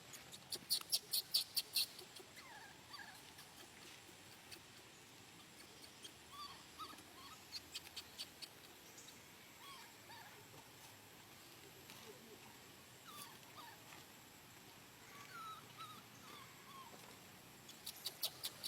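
Young monkey's high-pitched squeaks and chirps: a rapid run of sharp chirps about a second in, another around the middle and again near the end, with scattered short sliding squeaks between them.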